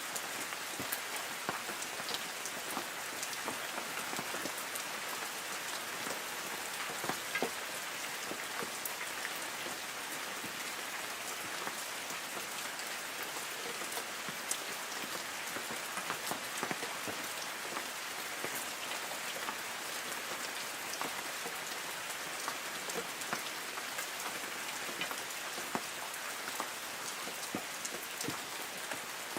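Light rain falling on forest trees: a steady patter of drops on leaves, with many sharper individual drop hits scattered throughout.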